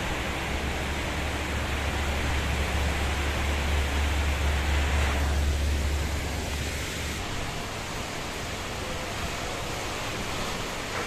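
Heavy rainstorm with strong wind: a steady hiss of rain and wind, with a deep low rumble that drops away about seven seconds in.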